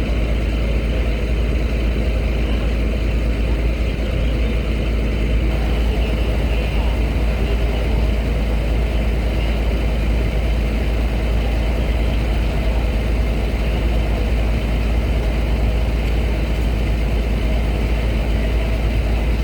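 Steady low rumble of heavy truck engines idling and moving, with car engines mixed in, thickening slightly about five seconds in.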